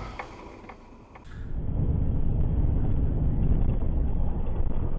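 Steady low rumble of a car driving, heard from inside the car, after a quieter first second or so with a few faint clicks.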